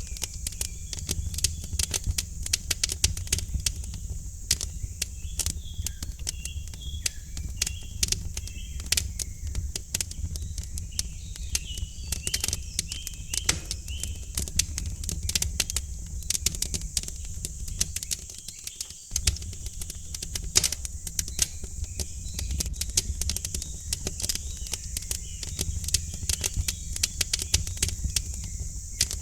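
Wood fire in a fireplace crackling, with dense irregular snaps and pops over a steady low rumble. Birds chirp briefly a few times in the background.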